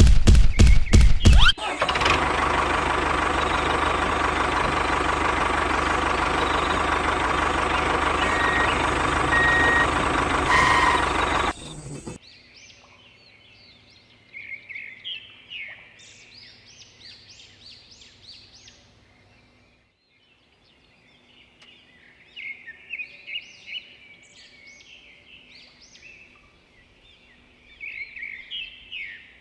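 A quick series of loud knocks, then a steady loud mechanical noise that cuts off abruptly about twelve seconds in. After it, birds chirp in short bursts over a faint hum.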